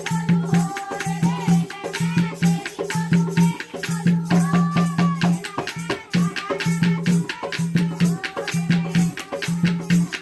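Jakdi folk song: a gliding sung melody over fast, dense rattling percussion, with a low note pulsing on and off in a steady rhythm.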